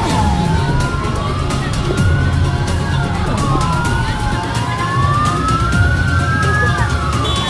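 Two or more emergency vehicle sirens wailing slowly out of step, their pitches rising and falling and crossing each other, over a low rumble.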